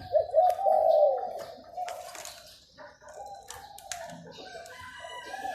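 A caged dove cooing: a rolling, mid-pitched, round coo in the first second, and another coo starting near the end, with a few light clicks in between.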